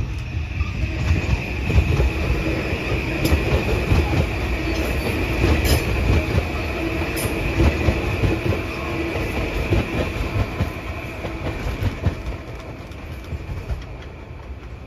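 Kawasaki M8 electric multiple-unit train passing close by, its wheels rumbling and clicking over the rails with a steady high whine. The sound dies away near the end as the train moves off.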